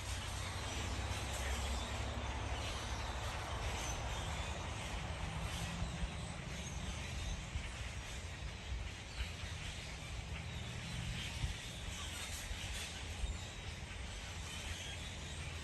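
Outdoor ambience: a steady low rumble with faint bird sounds and a few short clicks.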